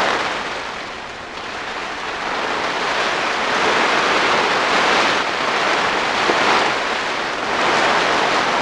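Heavy rain drumming on a polytunnel's plastic cover, a dense steady hiss that eases briefly about a second in, then swells louder.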